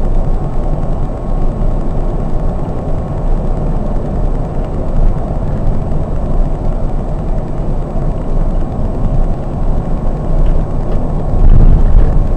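Scania K420 double-decker coach under way at road speed: a steady low rumble of engine and road noise, swelling a little near the end.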